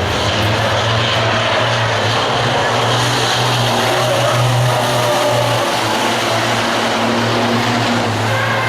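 Steady low engine drone from a running vehicle, with an even rushing noise over it.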